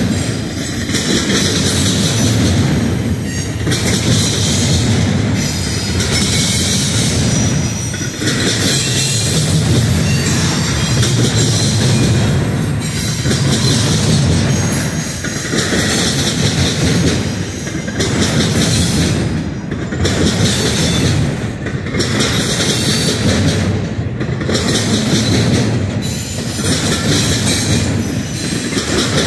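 Double-stack intermodal well cars rolling past: steel wheels clattering over the rails in a continuous rumble that swells and fades about every two seconds as the cars go by, with a thin, high wheel squeal at times.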